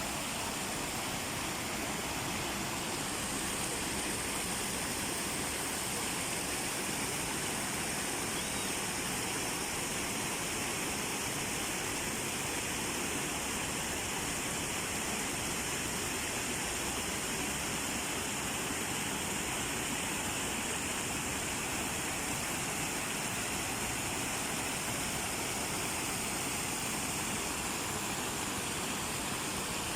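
Steady rushing of falling water from a waterfall, an even noise without breaks.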